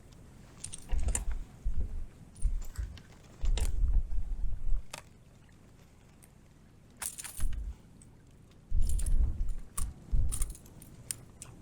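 Wind buffeting the microphone in irregular gusts of low rumble, mixed with scattered sharp clicks and light metallic jingling from fishing gear being handled on a kayak in choppy conditions.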